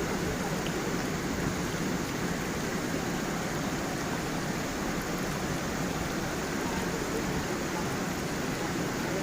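Stream water flowing and splashing over stones, a steady rushing noise.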